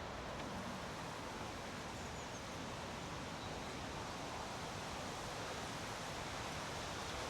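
Steady, even outdoor background hiss with nothing standing out.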